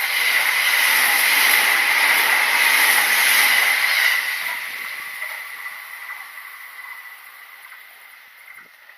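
Kintetsu electric train passing close by with a high steady whine, loudest for the first four seconds, then fading steadily as it runs off into the distance.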